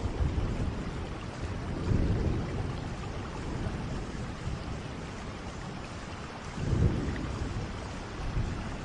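Steady rain with low rolls of thunder, swelling about two seconds in and again near seven seconds.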